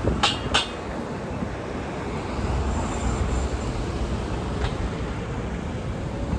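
Road traffic passing on a busy street: a steady rumble and rush of engines and tyres, with two sharp clacks in quick succession just after the start.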